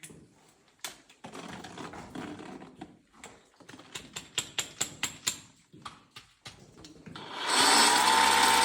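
A series of sharp clicks and light rattling as the pressure washer is handled. Near the end the pressure washer's motor starts up with a loud steady whine and runs on, being run so the drained hose fills with water.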